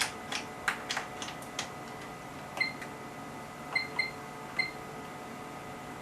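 Front-panel keys of an HP 3245A universal source being pressed to enter an output value: a quick run of key clicks in the first second and a half, then four short beeps, each with a click, over a faint steady whine.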